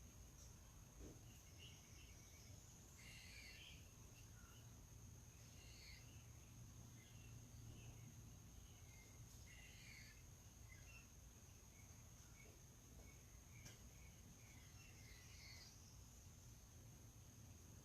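Faint outdoor ambience of scattered short bird chirps, over a steady high-pitched whine and a low hum.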